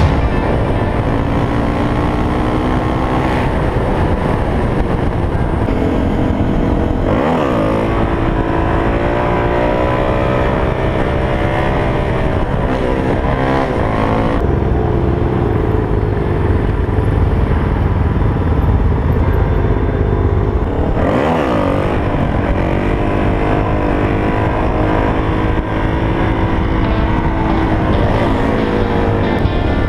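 Suzuki DR-Z400SM's single-cylinder four-stroke engine under way, its pitch rising and falling several times as it revs through the gears, with wind noise rushing over the microphone.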